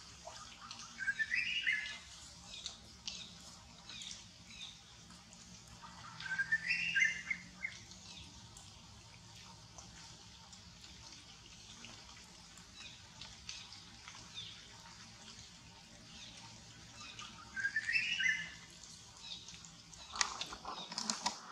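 Birds calling in the background: one bird repeats the same short phrase three times, with scattered faint high chirps between, and a brief louder noise near the end.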